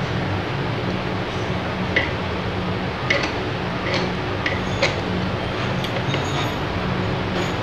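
Scattered sharp metal clicks and taps of hand tools working on a gondola hoist's front casing, about half a dozen over several seconds, over a steady background hum.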